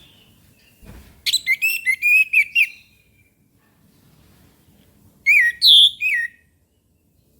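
Orange-headed thrush singing: a quick run of clear whistled notes about a second in, then a short phrase of sharply sweeping notes near the end.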